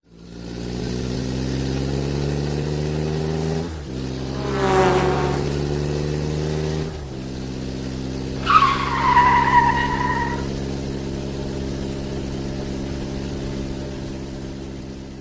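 Car engine accelerating through the gears: its pitch climbs steadily and drops at two gear changes. A tyre squeal falls in pitch about eight and a half seconds in.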